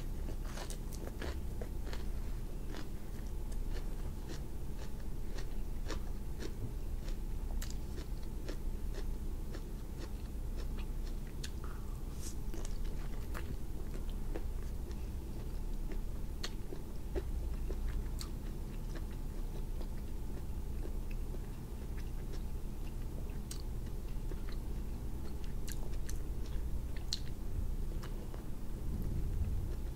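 Close-up chewing and biting of grilled cuttlefish and crisp romaine lettuce, with many sharp wet mouth clicks and crunches scattered throughout, over a low steady hum.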